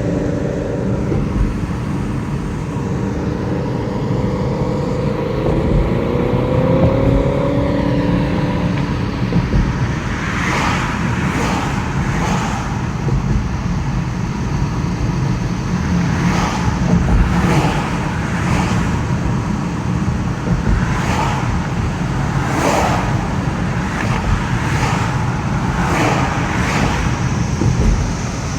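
Cicadas droning steadily and high over a loud low rumble of passing road traffic. An engine note rises between about four and nine seconds in, and from about ten seconds on there are short rasping buzzes every second or two.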